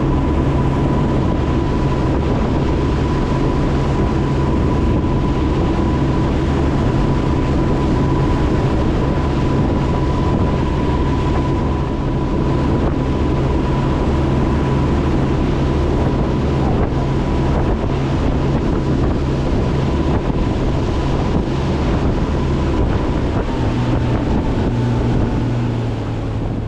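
Motorboat engine running steadily underway, with wind buffeting the microphone and a thin steady whine running above it that fades out a few seconds before the end.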